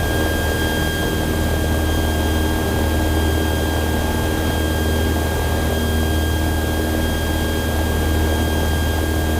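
Cabin noise of a Cessna 172 climbing after takeoff: the four-cylinder piston engine and propeller make a steady, loud drone with a thin steady whine above it.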